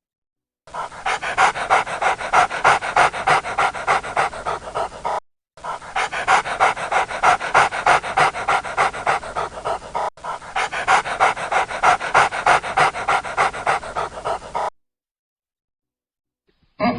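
Dog panting rapidly and steadily, about four breaths a second, broken off briefly twice.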